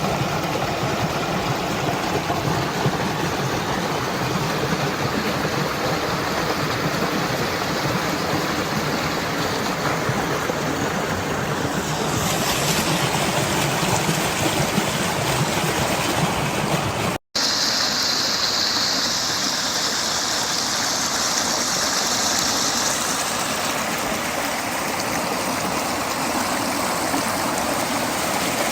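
Rainwater flowing in a stream or torrent, a steady rushing noise. A brief break about two-thirds of the way through, after which a higher hiss joins the rush for about five seconds.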